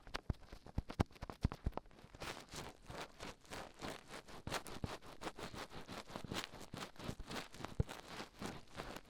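Dried glue being peeled off the ears of a 3Dio binaural microphone, very close to the mic: a few sharp clicks in the first two seconds, then a dense run of crackly peeling strokes.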